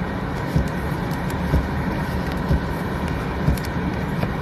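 Steady vehicle rumble and hiss, with a low thump repeating about once a second.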